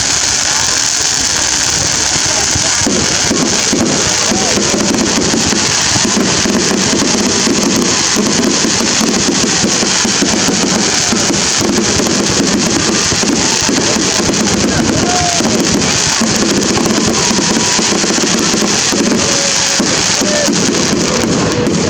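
Dense crowd noise with many voices, joined about three seconds in by music carried in loud, low-pitched stretches about a second long.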